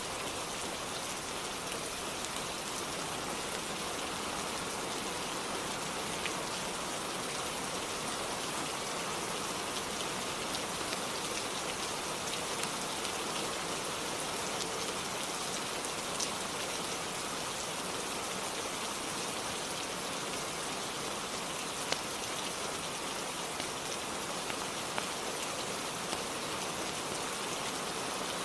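Steady rainfall, an even hiss of many drops, with a few sharp isolated ticks scattered through it.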